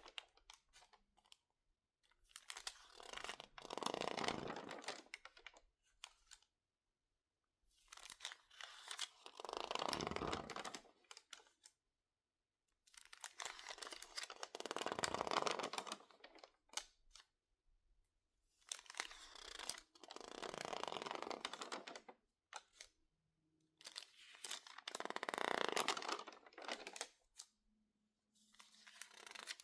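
Stiff, crinkled magazine pages, water-damaged and dried, being crackled and squeezed by hand. The sound comes in about five separate crinkling bouts of a few seconds each, with silent pauses between them.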